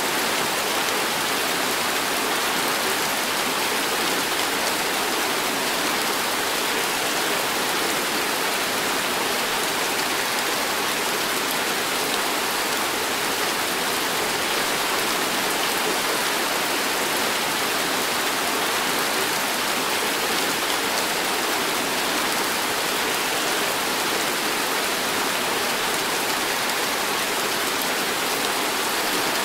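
Heavy tropical rain pouring down in a steady, dense hiss that does not let up.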